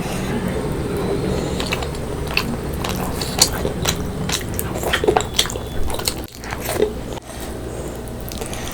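Close-miked eating: a person biting and chewing fish curry with rice, with a run of sharp crunches in the middle, over a steady low hum.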